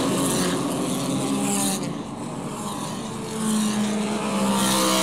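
Race car engines running at high revs, their sound dropping away about two seconds in and building again near the end.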